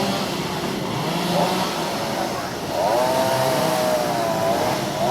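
Small petrol engine revving up sharply about three seconds in and holding high revs for around two seconds, over a steady engine drone.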